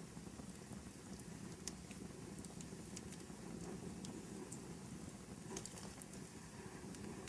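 Wood fire burning in a fireplace: a low steady rustle of flames with scattered small crackles and pops.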